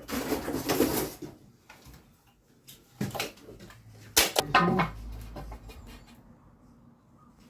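Clatter and knocks of wooden ceiling battens being handled and fitted: a burst of rattling in the first second, a knock about three seconds in, and a loud sharp knock with a brief ring about four seconds in.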